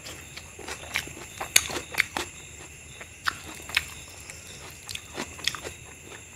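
Close-miked eating sounds: a person chewing tomato, rice and mutton curry, with irregular wet clicks and lip smacks. The loudest smacks come a little after a second and a half and around two seconds in.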